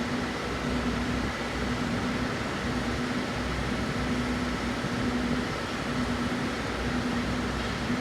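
Steady machine hum in a workshop, with a low tone that swells and fades about once a second.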